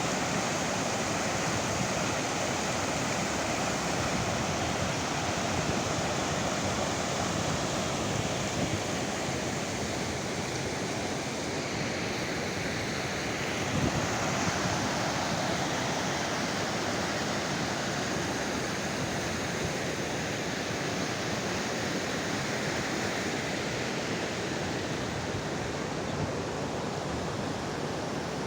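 Mountain stream rushing steadily over rocks, a continuous dense noise of flowing water. A brief low bump about halfway through.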